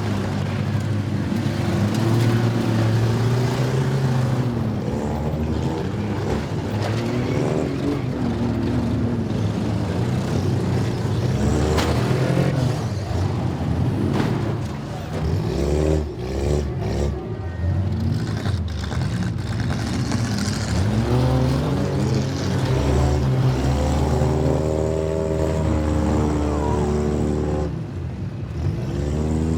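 Demolition derby cars' engines revving hard and running at high speed throughout, several at once, with a few sharp bangs of impacts a little past halfway.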